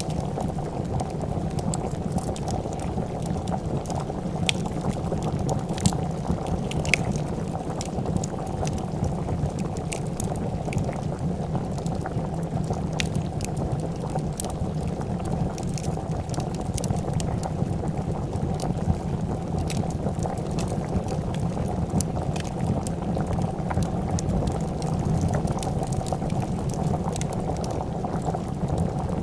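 A pot of soup boiling: a steady, low bubbling. Scattered sharp crackles and pops from a wood fire sound over it throughout.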